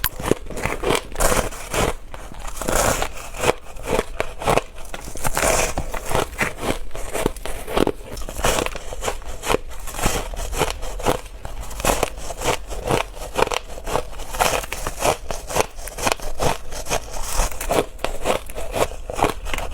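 Close-up crunching of ice being bitten and chewed: dense, rapid crackling crunches, several a second, with no pause.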